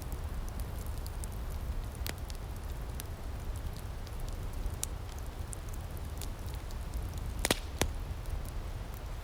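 Outdoor wood fire crackling, with scattered sharp pops over a steady low rumble; a louder pair of pops comes near the end.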